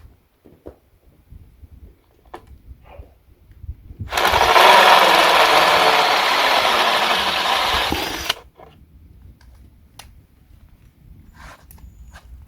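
Cordless drill running a blunt 25 mm hole saw through aluminium for about four seconds, starting about four seconds in and stopping abruptly, with a few light handling clicks before and after. The cutter's teeth are clogged with aluminium, so the drill struggles in the cut.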